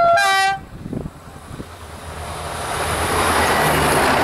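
Diesel railcar sounds one short two-tone horn blast, a higher note then a lower one. Its running noise and wheels on the rails then grow steadily louder as it approaches and passes close by.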